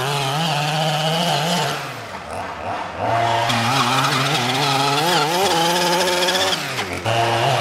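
Small 26cc two-stroke gasoline engine of a 1:5 scale RC buggy running and revving, its pitch rising and falling with the throttle. It eases off for about a second around two seconds in, picks up again, and dips briefly near the end.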